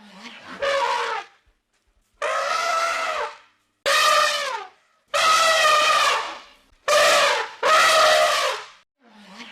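An animal calling over and over, about six loud, drawn-out calls of roughly a second each with short gaps between them, each call bending down in pitch at its end.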